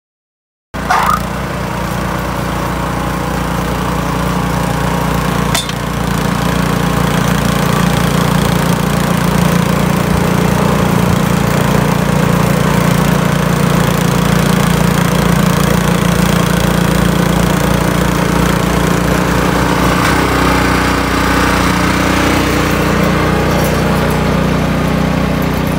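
Small engine running steadily at a constant speed, cutting in abruptly about a second in.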